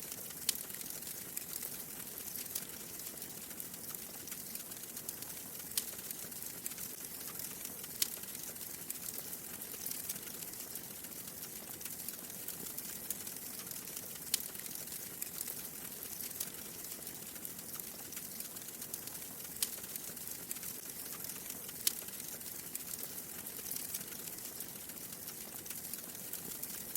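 Wood fire in a fireplace crackling: a steady soft hiss with sharp pops every couple of seconds, the loudest about half a second in and near 8, 14, 20 and 22 seconds.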